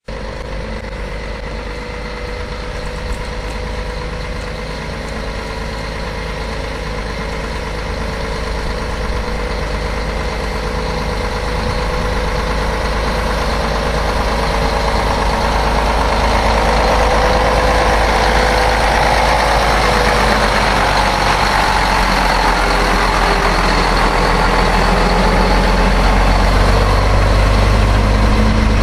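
Mack truck's diesel engine running steadily, growing gradually louder over the whole stretch.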